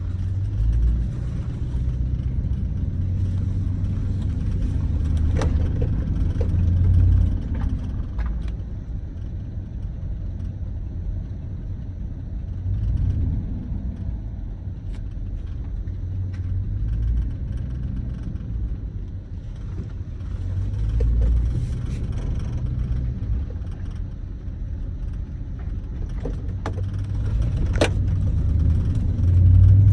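4.8-litre LS V8 heard from inside the vehicle while driving: a low engine and road rumble that swells several times as it accelerates, with a few short clicks.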